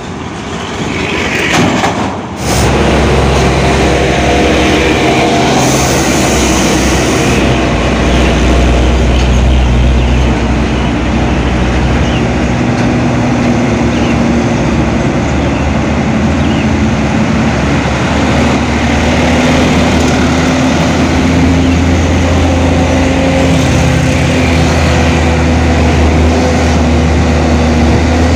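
Heavy truck engine running loudly, a steady low drone that starts abruptly about two seconds in; its pitch creeps slowly upward over the last few seconds.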